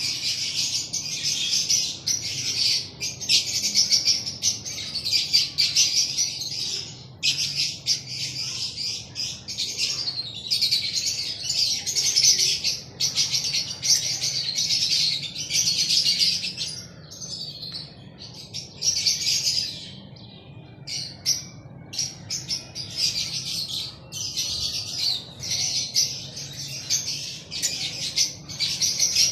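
A flock of lovebirds chattering with dense, shrill chirps, thinning out for a few seconds past the middle, then building up again.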